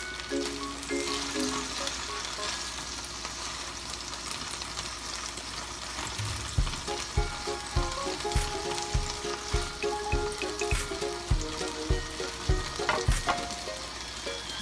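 Ahi tuna steak sizzling as it sears in oil and pineapple juice in a nonstick pan, with a spatula working in the pan. Background music with a steady beat comes in over it about six seconds in.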